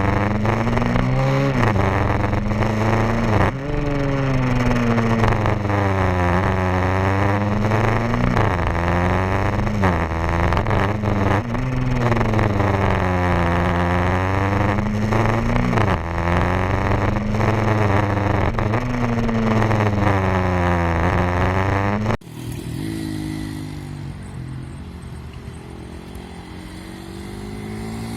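A 150cc pit bike engine revving, its pitch climbing and falling again and again. After about twenty seconds the loud engine cuts off suddenly and a quieter engine continues.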